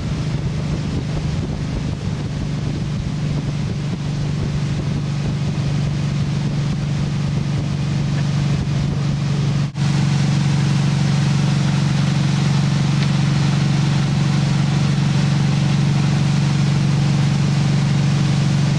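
Motorboat engine running steadily at towing speed, with wind on the microphone. About halfway through there is a brief dropout, after which the engine drone is a little louder and steadier.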